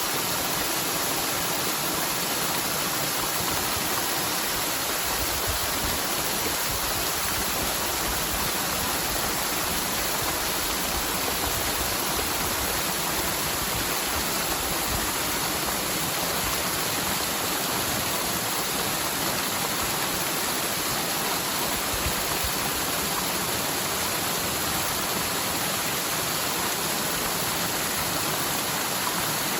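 Rain-swollen mountain stream rushing steadily down its bed, a continuous even sound of running water. The normally near-dry channel is in spate after typhoon rains.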